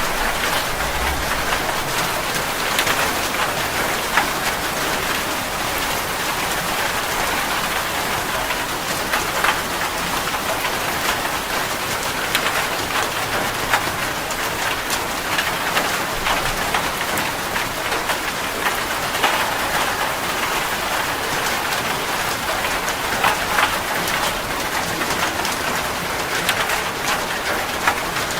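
Steady rain falling, with many close individual drops ticking on a surface.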